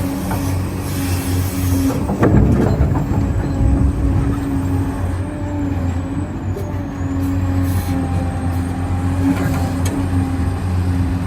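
Scale RC construction machines running: a steady low engine-like hum, with a thin high electric motor whine that dips in pitch around the middle. A brief rattle comes about two seconds in.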